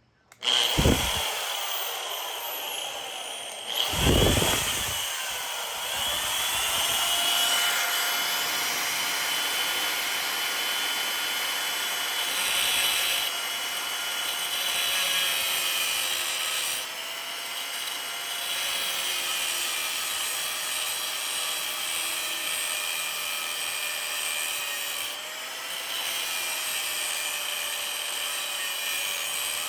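Angle grinder with a cutoff wheel starting up about half a second in, then running steadily as it cuts through a horseshoe, a dense hiss with a slightly wavering whine.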